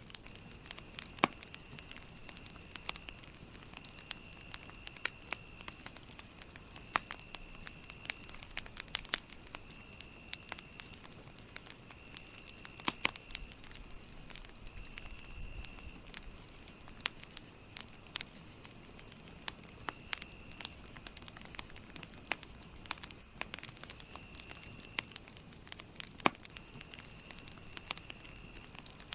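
Campfire crackling, with irregular sharp pops and snaps. Behind it run high-pitched steady trills and an even chirp about three times a second.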